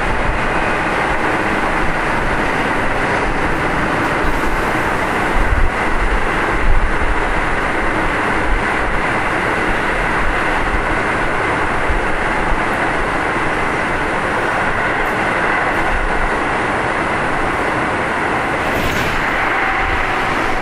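Keio 7000 series field-chopper electric train running on the line, heard from inside the car: steady wheel, rail and motor noise with a faint steady tone. A few low thumps come through about five to seven seconds in.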